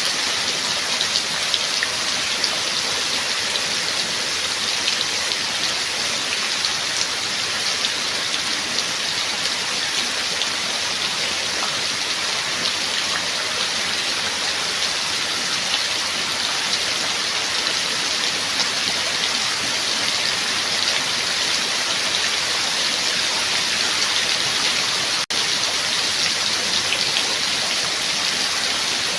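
Steady rain falling, an even hiss of many drops on a surface, briefly cutting out for an instant near the end.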